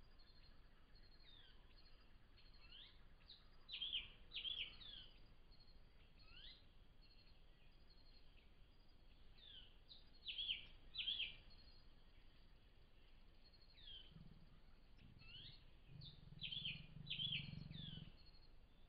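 Wild birds calling on and off with short, high, down-slurred notes. The loudest come in pairs about four, ten and sixteen seconds in, over a faint steady hiss. A faint low hum sounds for a few seconds near the end.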